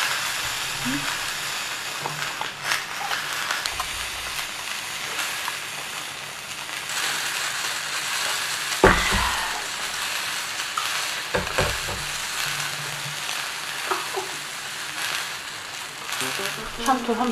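Rain falling steadily on the roof of an ice-fishing hut, an even hissing patter, with a few light knocks and one duller thump about nine seconds in.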